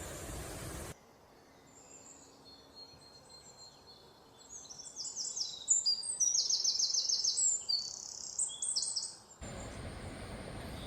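Birds chirping: many short high calls and quick trills of repeated notes, busiest in the second half, over a quiet background. Steady outdoor noise is heard before and after, with sudden cuts about a second in and near the end.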